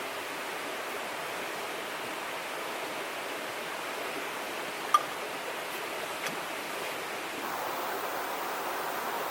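Steady rush of a flowing river, growing a little louder near the end, with one sharp click about five seconds in.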